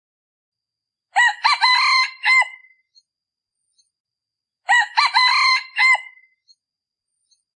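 Male red junglefowl decoy rooster crowing twice, a few seconds apart. Each crow is short and clipped off at the end, the call used to lure wild junglefowl.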